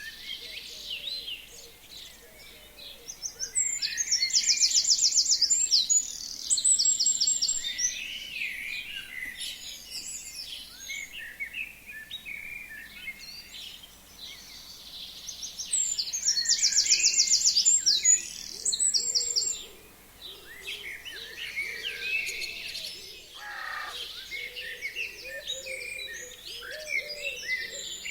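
Forest songbirds singing. One bird gives a loud, fast, trilled song twice, about twelve seconds apart, over a steady background of other birds chirping and calling.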